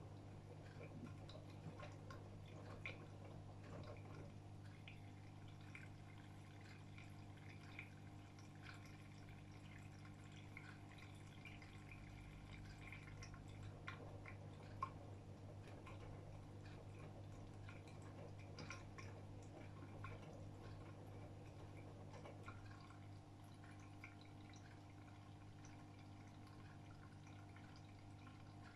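AEG Öko-Lavamat 76910 washing machine partway through its wash: faint water dripping and trickling inside the drum over a steady low hum.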